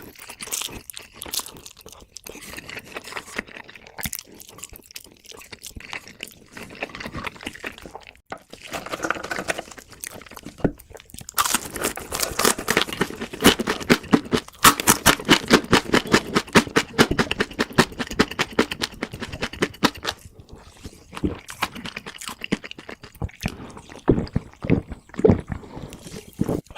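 Close-miked eating: chewing and crunching food in the mouth. A long, dense run of crisp crunches fills the middle, with a few louder single bites near the end.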